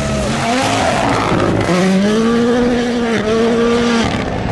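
Rally1 rally car's turbocharged engine at full throttle, revving up, with a quick gear change about three seconds in, then cutting off abruptly near the end as the driver lifts.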